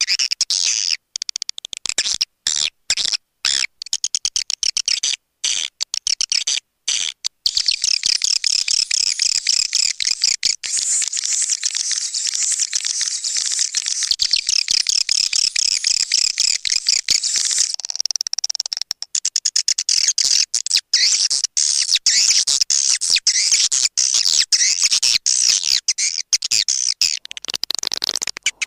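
Edible-nest swiftlets twittering: a dense, high-pitched chatter of chirps, the swiftlet call sound used to lure the birds. It comes in choppy short bursts with gaps for the first several seconds, then runs on as continuous twittering.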